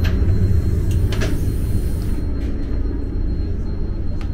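DB ICE 3 high-speed train running on the line, a steady low rumble with a few short clicks over it.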